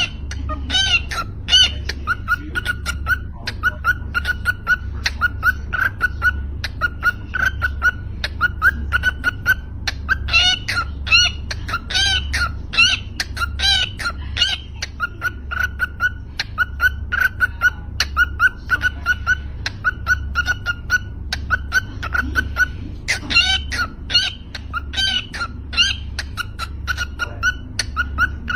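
Cockatiels chirping continuously, a run of short repeated calls about two a second, with bursts of louder, higher, bending squawks and whistles now and then.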